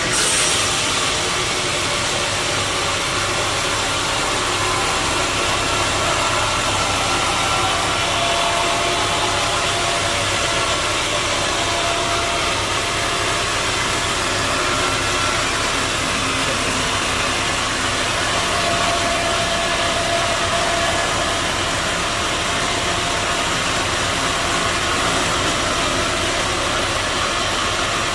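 Sawmill saw machinery running steadily: a continuous loud mechanical noise with faint tones drifting in pitch.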